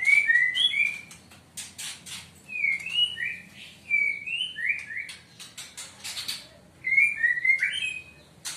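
Caged songbirds calling: short rising two-part whistled phrases repeated in bouts, with sharp high chips in between.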